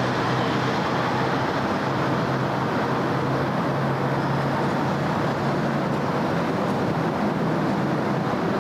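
Steady city road traffic: a continuous wash of tyre and engine noise with a low engine hum underneath.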